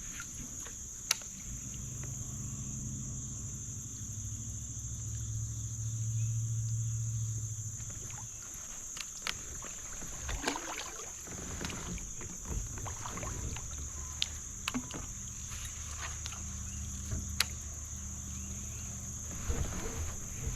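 Kayak out on a creek: a low hum that swells and fades, a few splashes and knocks of water and gear, and over it all a steady high buzz of crickets.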